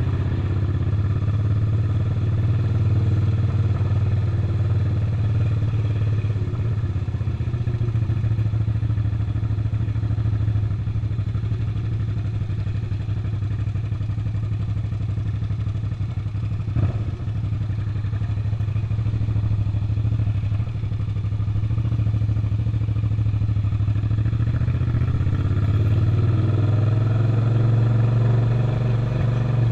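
Suzuki SV650's 90-degree V-twin engine running steadily under way, with one brief sharp knock about two-thirds of the way through. Near the end the engine pitch rises as the bike accelerates.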